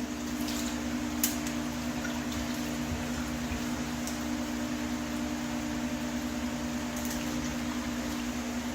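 A steady mechanical hum holding two low tones, with a few faint clicks and taps.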